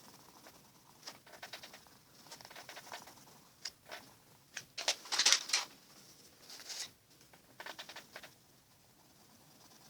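Coloured pencil scratching on paper in quick runs of short back-and-forth strokes, with the loudest run near the middle.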